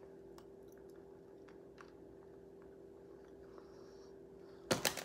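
Faint chewing and small mouth clicks from eating a piece of soft homemade pull candy, over a steady faint hum. There is a louder mouth sound near the end.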